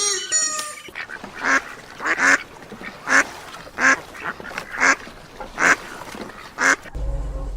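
A duck quacking, a series of short raspy quacks just under a second apart. Near the end the quacks stop and a low hum takes over.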